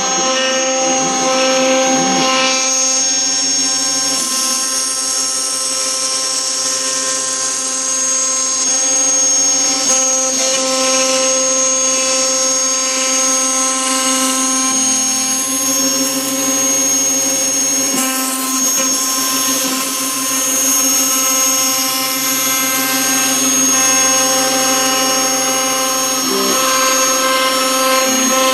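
CNC router spindle running steadily with a high whine while cutting sheet material, with the hiss of the cut over it and a lower hum that comes and goes as the machine moves.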